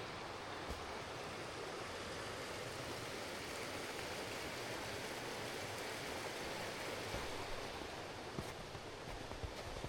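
Steady rush of flowing stream water, with a few light clicks near the end.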